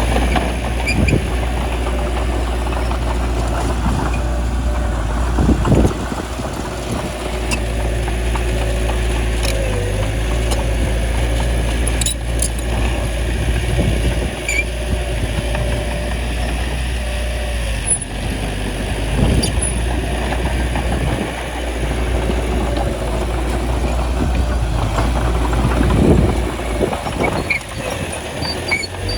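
Bulldozer's diesel engine running steadily under load, with occasional short knocks.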